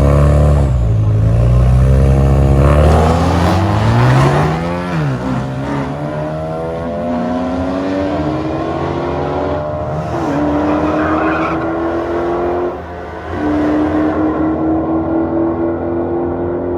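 A drag-racing car launching hard and accelerating away down the strip. The engine pitch climbs through each gear and drops back at each upshift, about four shifts in all, and the sound grows fainter as the car moves away.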